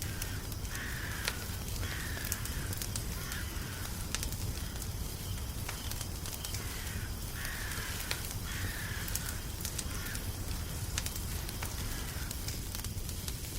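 Crackling fire, with sharp pops and snaps throughout over a low steady rumble. A crow caws in two bouts of about four harsh calls each, one starting about half a second in and the other around seven seconds in.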